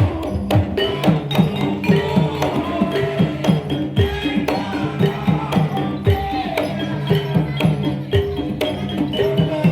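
Live Javanese gamelan accompaniment for an ebeg/jaranan horse dance: hand-drum strokes that drop quickly in pitch, several a second, over ringing metallophone notes playing a repeating melody.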